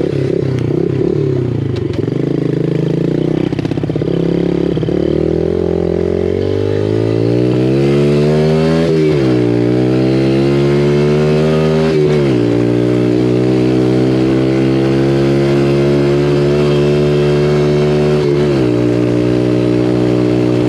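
Small single-cylinder four-stroke dirt bike engine running, its revs eased up from idle and held high, with two brief stumbles. The revving is meant to clear a speck of dirt from the carburetor's pilot jet, which is making it hesitate just off idle.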